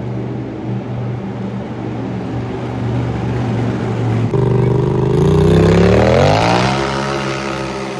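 Monster truck engine running steadily, then about four seconds in it suddenly gets louder and revs up, the pitch climbing for about two seconds before holding high.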